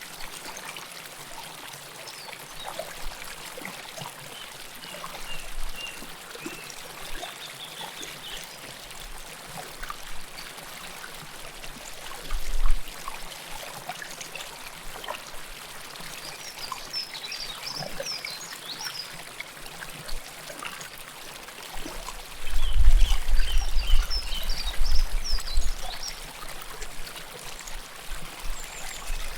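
River water flowing close to the microphone, a steady rush with trickling and pouring. Faint high chirps come through in short runs in the middle and again later. A louder low rumble lasts a few seconds about three quarters of the way through.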